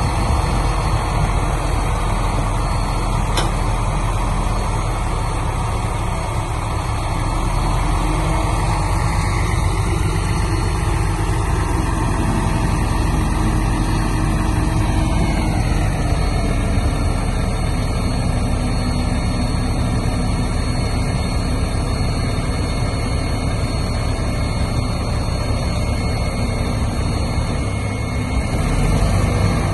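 Heavy diesel earthmoving machinery running steadily at work, with a high tone that slides down in pitch about halfway through.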